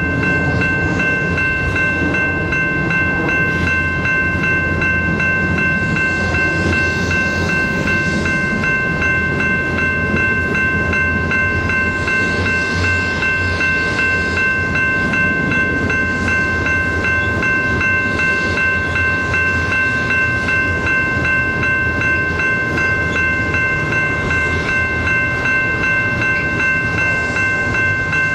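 Loaded double-stack container well cars of a freight train rolling past: a steady rumble and clatter of wheels on rail, with a continuous high-pitched squeal at one steady pitch over it.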